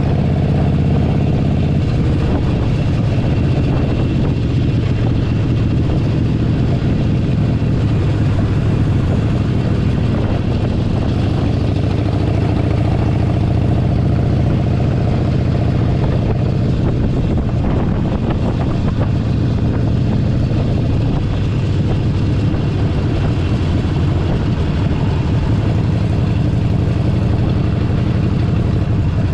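Air-cooled 1200 cc V-twin engine of a Harley-Davidson Forty-Eight Sportster running steadily, a deep low hum with road and wind noise.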